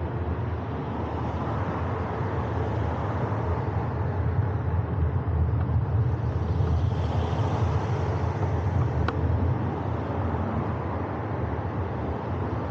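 Wind rumble on the camera's microphone and road noise while riding in traffic. It swells louder near the middle, with a short click about nine seconds in.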